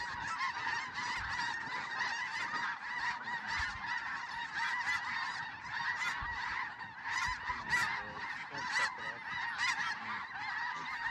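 A large flock of snow geese calling: a dense, unbroken din of many overlapping honks, with a few louder single calls standing out in the second half.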